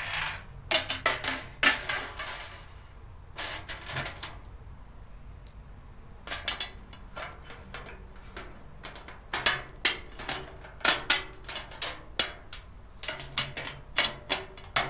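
Irregular clinks and clatters of storage-cart parts, screws and a small wrench being handled during assembly, with a lull about five seconds in and busier handling from about nine seconds on.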